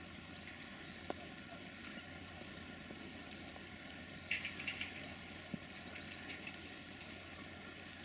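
Birds chirping in short high bursts over a steady low outdoor hum, with the loudest flurry of chirps about four seconds in.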